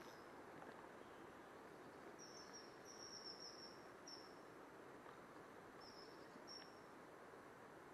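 Faint, steady background hiss with a few short, high, thin chirps from a small bird: a cluster about two to four seconds in and two more near the end.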